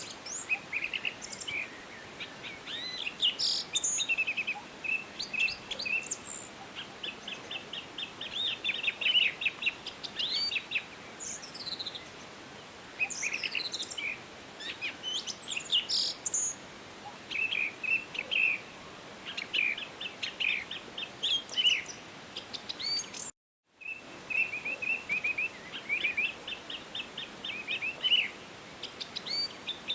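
Several songbirds singing and calling: rapid trills of repeated high notes and scattered chirps, one after another, over a faint steady background hiss. The sound cuts out completely for about half a second roughly three-quarters of the way through.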